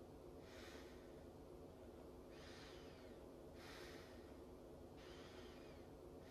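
Faint, heavy breathing: four drawn-out breaths about a second and a half apart, over a low steady hum.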